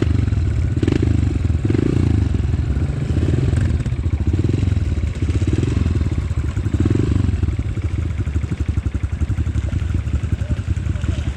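Off-road motorcycle engine running at low revs. It swells and eases about once a second for the first several seconds, then settles into a steadier, even beat.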